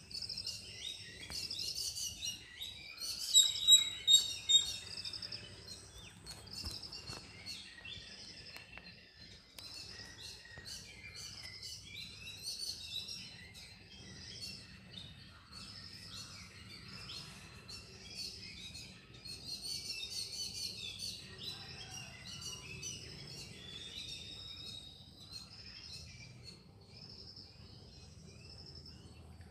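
Small birds chirping and twittering continuously, several calls overlapping, with a burst of louder, sharper chirps about three to four seconds in.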